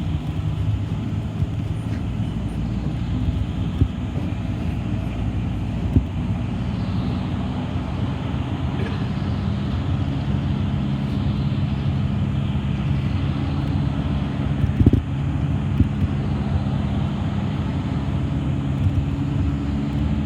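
City bus in motion heard from inside: a steady low drive hum and road noise, with a few short knocks and rattles.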